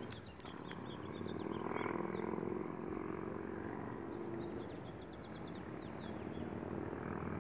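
Small birds chirping in quick runs of short, high, falling notes, in two bunches. A steady low hum runs underneath.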